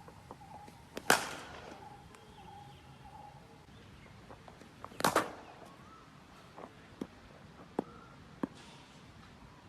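Cricket bat striking a ball: two loud, sharp cracks about four seconds apart, each with a short ringing echo, followed by three fainter knocks near the end.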